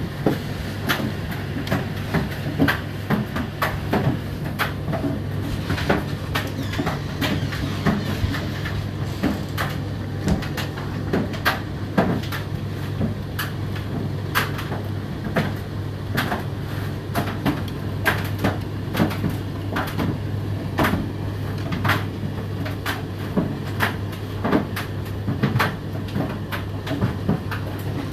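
Indesit IDC8T3 8 kg condenser tumble dryer running: a steady low motor hum with frequent irregular clicks and knocks as the load tumbles in the turning drum.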